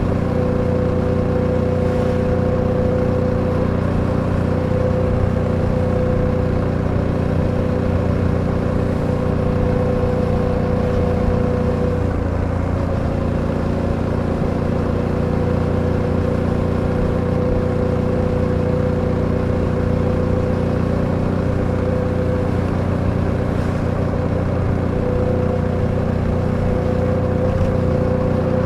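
Suzuki V-Strom 800DE's 776 cc parallel-twin engine running at a steady cruise under way, with steady rushing road noise. The engine note wavers briefly about halfway through and rises slightly near the end.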